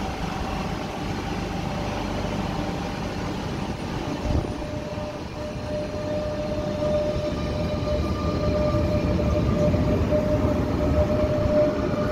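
Renfe Cercanías electric commuter train moving slowly along the platform, its rumble mixed with steady electric motor whine tones. The whine steps down in pitch a few seconds in, and the sound grows louder over the second half.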